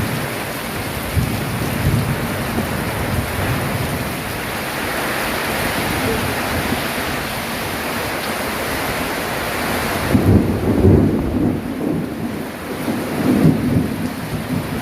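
Steady rain falling as a dense hiss. About ten seconds in, a low rumbling builds and swells twice while the high hiss thins out.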